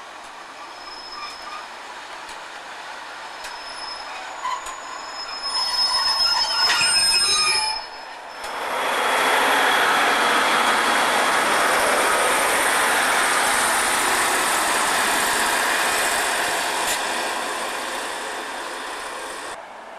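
Two-car Sprinter diesel multiple unit approaching, getting louder, its wheels squealing and clicking on the track. After a sharp break about eight seconds in, the train passes close by with a loud steady rush of wheels and engine, easing slightly before it cuts off just before the end.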